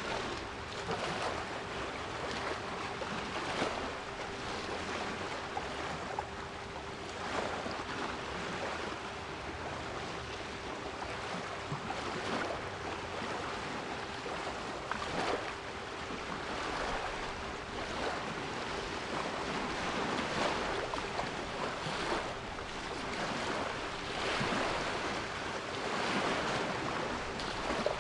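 Sea waves breaking and washing in repeated swells, with a steady 396 Hz pure tone held underneath.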